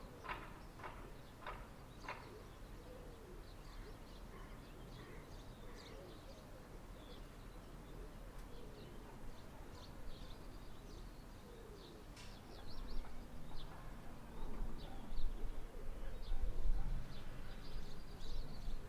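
Outdoor bird sounds: small birds chirping on and off, with doves cooing. There are a few sharp knocks in the first two seconds, and a low rumble swells up about two-thirds of the way through.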